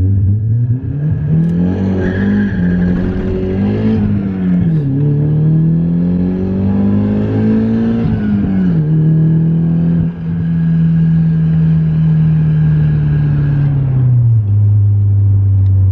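Nissan S13 heard from inside the cabin, its engine pulling up through the gears of a freshly swapped gearbox: the revs climb, drop at an upshift about four and a half seconds in, climb again and drop at a second shift near nine seconds. It then runs at a steady engine speed before the revs fall near the end.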